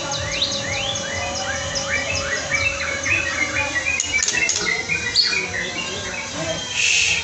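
Several songbirds chirping and singing at once, many short rising chirps overlapping, with a brief rushing noise near the end.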